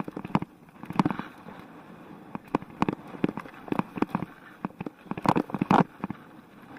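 Mountain bike clattering and knocking as it jolts over rough, rocky ground: irregular sharp knocks, with a loud run of them about five seconds in.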